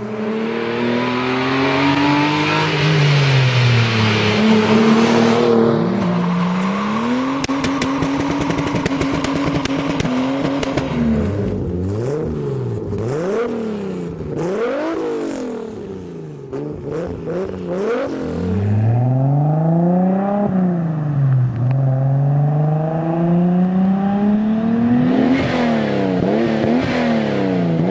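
Toyota Supra straight-six engines and exhausts, in several clips cut back to back. The engine pulls up through the revs and drops at each gear change; in the middle it revs sharply up and down several times; then it accelerates hard through the gears again.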